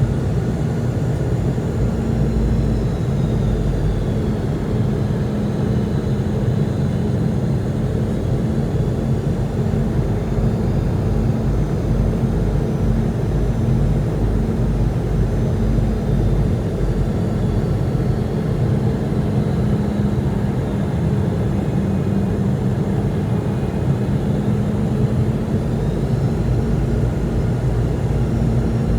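Jet airliner engines on approach: a steady low rumble with faint high engine whines that slowly fall and rise in pitch.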